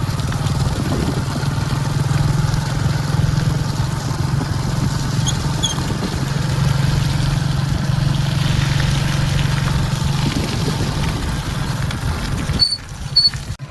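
A vehicle engine running steadily, with two short high beeps near the end.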